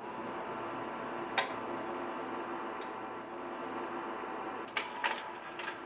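Slide projector running: a steady fan hum with sharp mechanical clicks from the slide-changing mechanism, a loud one about a second and a half in, a faint one, then a quick run of clicks near the end.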